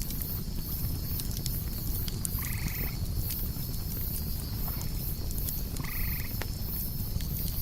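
Campfire burning with a low rumble and scattered crackles, under a steady, pulsing chorus of night insects. A short animal call sounds twice, about three and a half seconds apart.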